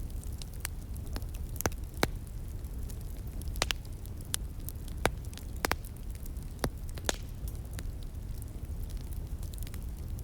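Wood fire crackling, with irregular sharp pops, about eight louder ones among many faint ticks, over a low steady rumble.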